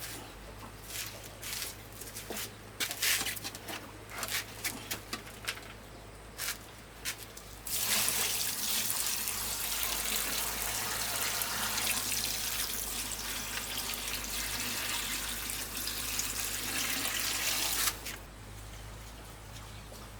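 Scattered clattering knocks, then water pouring or running in a steady stream for about ten seconds. The stream starts and stops abruptly.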